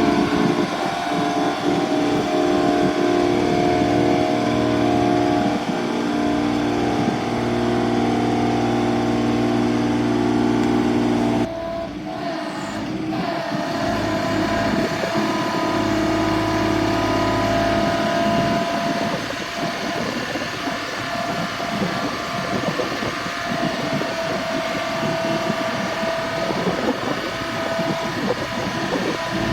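Engine on a GMC C7500 forestry chipper dump truck running at a steady speed, with an abrupt change in its sound and a drop in loudness about eleven seconds in.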